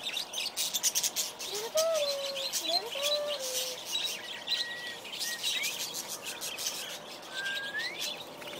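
Many aviary birds chirping and chattering rapidly at once, with several clear whistled notes that glide up and down in pitch.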